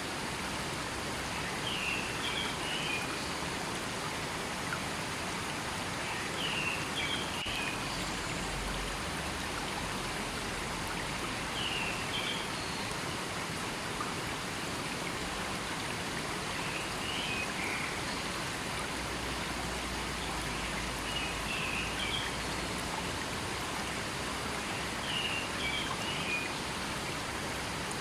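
River water flowing steadily over rocks, a constant rushing. A bird gives a short chirping call about every five seconds over it.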